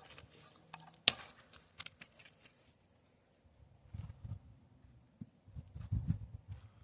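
Rustling and handling of tomato plants while fruit is picked by hand, with a sharp snap about a second in and low muffled bumps in the second half.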